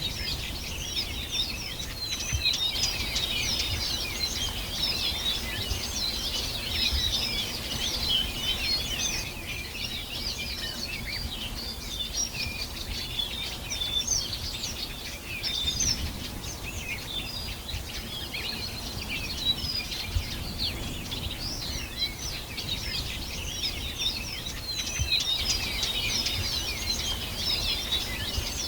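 Many birds chirping and singing at once in a dense, unbroken chorus of short high calls and trills, over a low steady background rumble.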